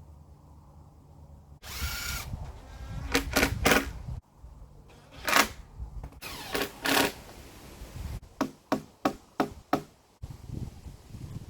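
A string of short, sharp knocks and clicks, scattered irregularly, over a low rumble that starts and stops abruptly several times.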